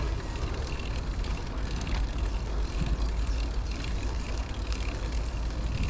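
Wind buffeting a moving bicycle-mounted camera's microphone, with a steady low rumble of riding noise.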